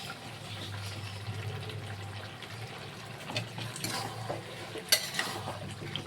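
Chicken curry sizzling and simmering in a pan on the stove, with a few light clicks of a utensil against the pan about three to five seconds in.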